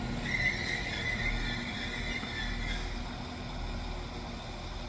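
Northern Class 195 diesel multiple unit creeping to a stop at the platform, its low running hum under a high, wavering squeal that lasts a couple of seconds as the train brakes.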